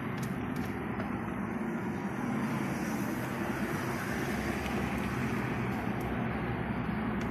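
Opel Astra F's petrol engine running steadily, getting a little louder about two seconds in.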